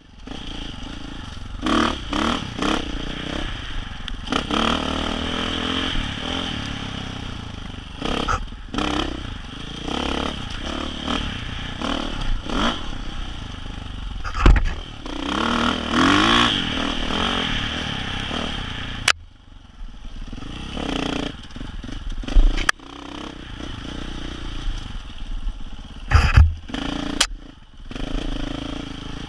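Dirt bike engine on and off the throttle on a trail ride, revving up and easing off again and again, with clatter and scraping from the bike over rough ground. The engine falls back almost to idle about two-thirds through, and sharp knocks come a few times near the end.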